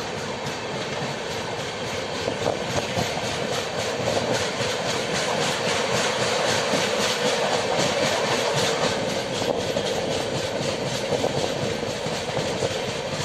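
Express passenger train running along the line, heard from an open coach door: wheels rumbling and clicking rapidly over the rails, getting louder over the first few seconds.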